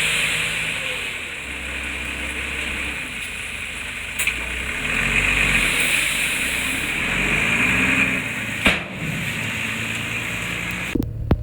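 Diesel engine of heavy construction machinery running and changing speed, with a sharp knock about four seconds in and a louder one near nine seconds. The sound changes abruptly near the end.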